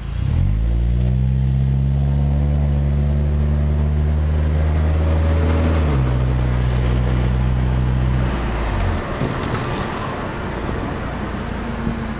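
2004 Mazda3's four-cylinder engine, breathing through a Mazdaspeed3 cat-back exhaust and race pipe, heard from inside the cabin under hard acceleration. It is a loud drone that climbs quickly at the start, drops in pitch at a gear change about six seconds in, and fades as the throttle closes near nine seconds, leaving tyre and road noise.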